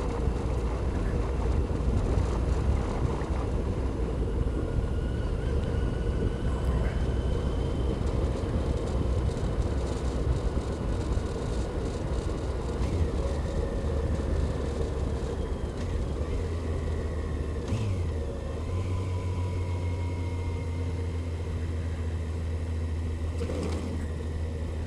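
Motorcycle engine running while riding, with wind and road noise. The engine pitch rises and falls slightly, and about three-quarters of the way through the low rumble settles to a steadier note.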